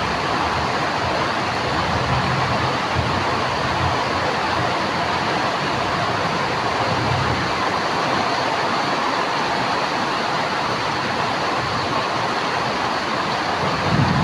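Heavy rain pouring down in a steady hiss, with a few low rumbles in the first few seconds and again about halfway through.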